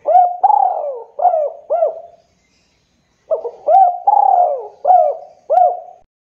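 Spotted dove (tekukur) cooing: two phrases of four or five rounded coo notes each, separated by a pause of about a second.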